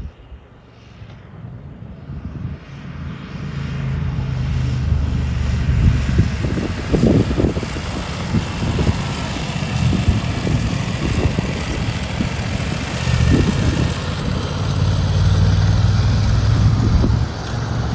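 BMW R1200's boxer-twin engine pulling as the motorcycle picks up speed, with wind rushing over the helmet camera's microphone; the sound swells over the first few seconds, then runs steadily with the engine pitch rising and falling.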